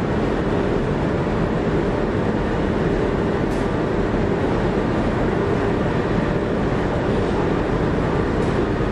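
Train running on the rails: a steady, unbroken rumble of wheels and running gear.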